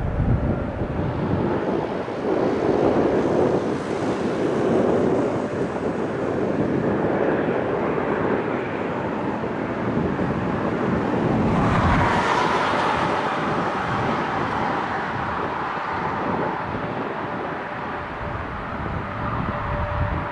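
Jet engines of an Airbus A340-600, its four Rolls-Royce Trent 500s, running as a steady broad noise, with wind buffeting the microphone. The noise grows brighter and louder about twelve seconds in.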